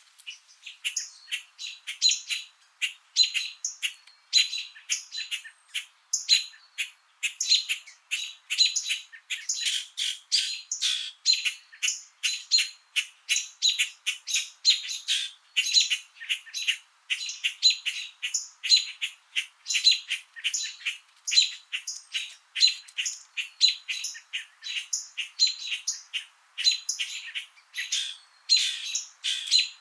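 Small birds chirping and tweeting in a dense, unbroken chorus of short, high calls, several a second.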